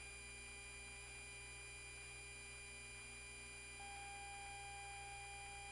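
Faint steady electrical hum made of several constant tones, with a further steady tone coming in a little after halfway.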